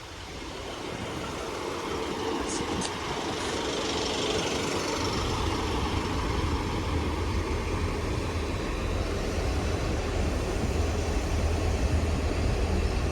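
Class 150 Sprinter diesel multiple unit coming into the platform, its diesel engine rumble building over the first few seconds and then running steadily with a deep low hum.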